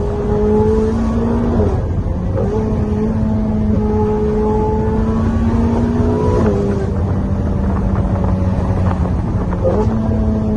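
Ferrari 488 GTB's twin-turbo V8 running through an aftermarket Fi exhaust while driving, with a steady engine note whose pitch drops and climbs again a few times as engine speed changes.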